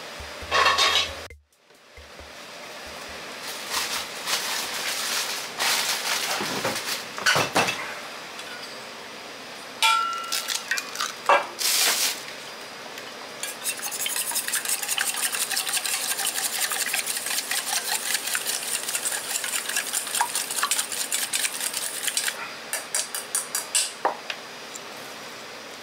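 An egg being beaten in a stainless steel bowl: a fast, even clatter of the utensil against the metal for about eight seconds. Before it come scattered knocks and clinks, one with a brief metallic ring.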